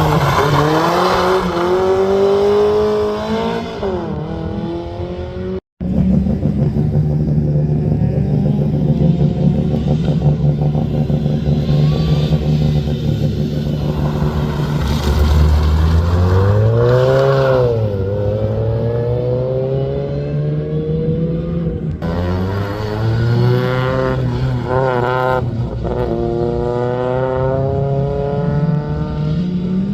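Rally car engine being driven hard, its note rising and falling as it revs up and changes gear. The sound breaks off sharply about six seconds in and again about 22 s in, with a burst of quick rev changes soon after the second break.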